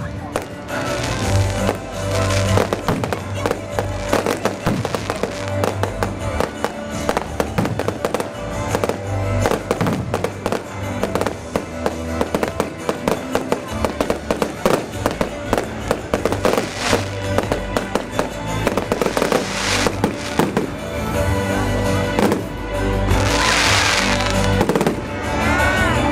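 Fireworks display going off in a dense barrage of sharp bangs and crackles, several reports a second, over loud music. A few seconds before the end comes a louder spell of hissing and crackling.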